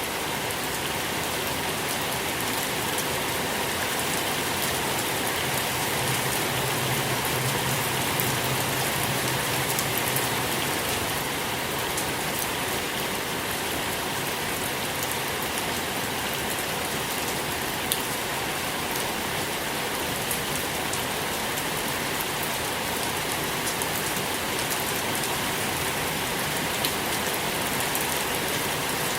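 Steady rain falling on a surface, a dense even patter of many drops with a few sharper single drips standing out now and then.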